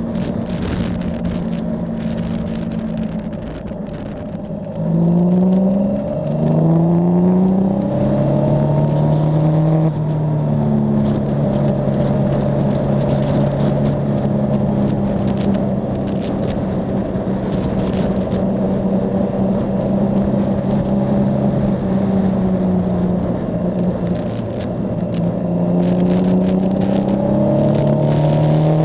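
Yamaha Tracer motorcycle engine heard from on board, riding at a steady pace. About five seconds in it pulls away, its pitch climbing in steps through gear changes, then it settles into a steady cruise. It eases off briefly and picks up again near the end.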